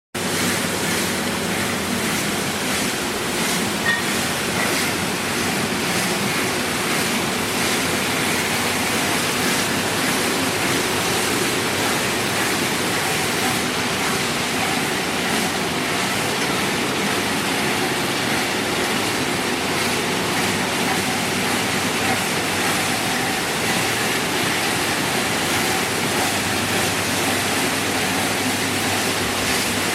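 Plastic crate washing machine running: a steady rush of spraying water over the machine's running noise, with one brief knock about four seconds in.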